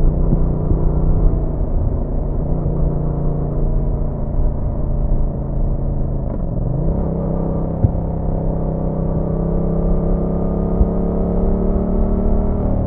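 Yamaha MT-07's 689 cc parallel-twin engine running under way. Its revs drop briefly about halfway and pick up again, then climb gradually toward the end as the bike accelerates.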